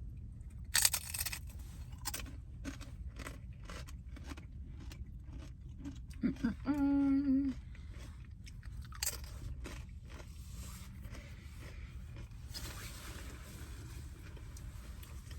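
Crunchy tortilla chips from an order of nachos with cheese being bitten and chewed, a long run of crisp crunches close to the mouth.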